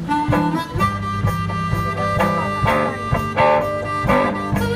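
One-man band playing blues-style harmonica over guitar, with held harmonica notes over a steady percussion beat.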